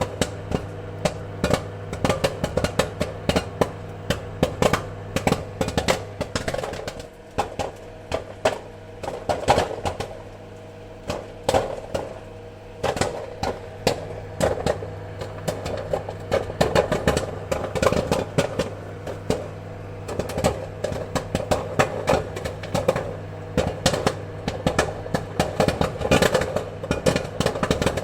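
Popcorn kernels popping: many sharp, irregular pops in quick succession that thin out for a few seconds in the middle and then pick up again, over a steady low hum.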